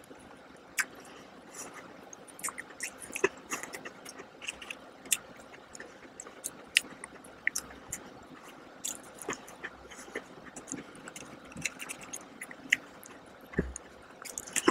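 A cookie being bitten and chewed close to the microphone: many small, irregular crunches and clicks.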